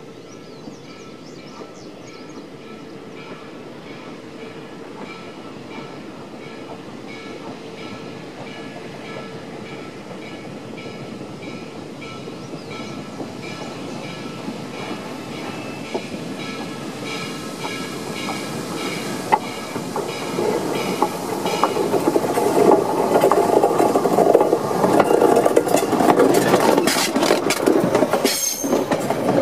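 A steam-hauled train approaching on the track and passing right overhead, growing steadily louder from a faint rumble to a loud clatter of wheels on rail over the last several seconds.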